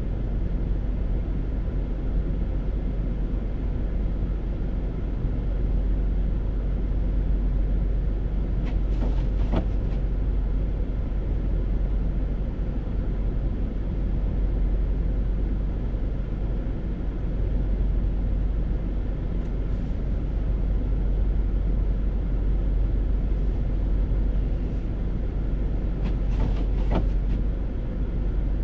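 A car driving along a road: a steady low rumble of engine and tyre noise, with two short, thin sounds, one about nine seconds in and one near the end.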